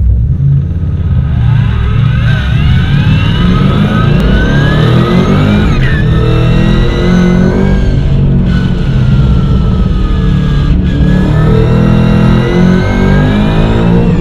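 Holden Commodore VF V8 running hard under acceleration through a sequential gearbox. The engine note climbs in pitch through the gears, and each upshift shows as a brief sudden break in the note, in keeping with the flat (no-lift) changes this gearbox is set up for. There are breaks about six, eight and a half and eleven seconds in.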